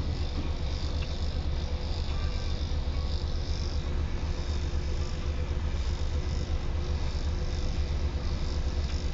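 Insects chirping steadily, over a constant low rumble.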